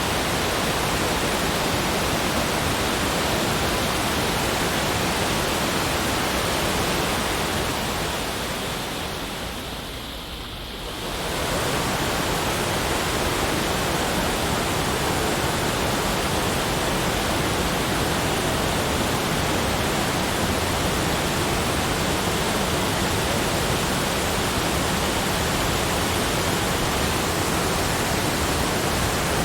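Steady, even rushing noise spread from deep to high pitches, with no distinct events. About eight seconds in it fades down briefly and comes back to full level a few seconds later.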